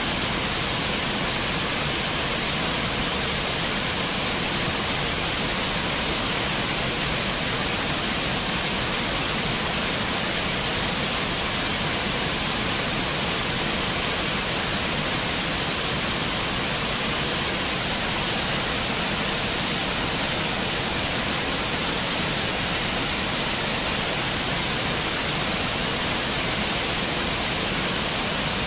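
Flowing water, a steady, unbroken rush with a constant high hiss running through it.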